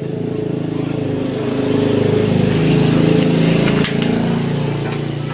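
Engine of an old rice harvesting machine running steadily. It grows a little louder over the first three seconds, then drops back abruptly about four seconds in.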